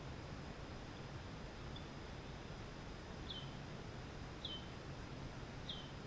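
Small bird chirping: three short, high calls, each dropping quickly in pitch, about a second apart in the second half, with a fainter one earlier. Under them is a steady hiss.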